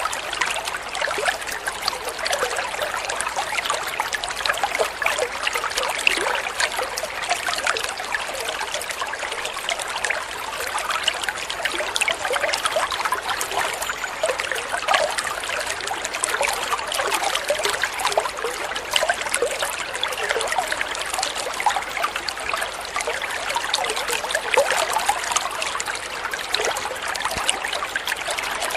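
Water flowing steadily in a small stream, trickling and splashing continuously.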